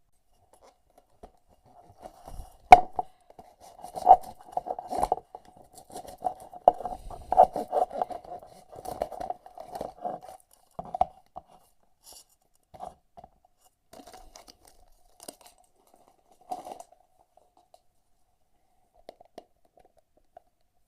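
Packaging being opened by hand: tearing, crinkling and clicking, busiest in the first half, with one sharp loud click about three seconds in, then only occasional rustles and clicks.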